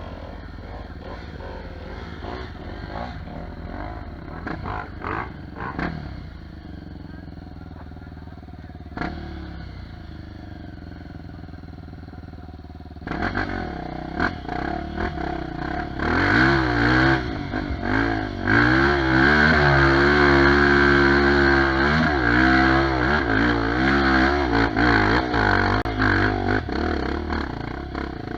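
Off-road trail motorcycle engine working hard on a dirt hill climb. Its note rises and falls as the throttle is worked, growing much louder about halfway through as the bike comes close. Before that, a more distant engine with scattered clatter.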